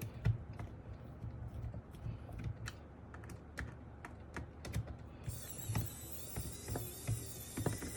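Light clicks and taps of handling a keyboard case, then, about five seconds in, the small motor of a Wowstick electric precision screwdriver starts a steady high whir as it drives out a case screw.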